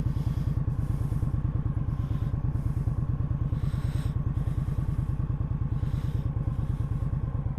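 Indian Scout 60's V-twin engine running steadily, an even rapid low throb with no revving.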